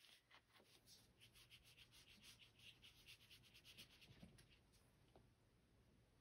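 Faint, quick scratchy strokes of a paintbrush worked back and forth on watercolor paper, about four or five a second, stopping near the end. The brush carries thick black paint and little water.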